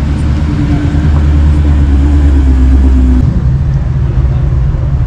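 A car engine running loudly at steady, raised revs, which drop away about three seconds in.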